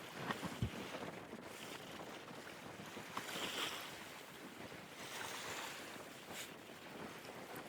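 Wind and sea noise aboard a boat at sea: a steady hiss with a few faint knocks.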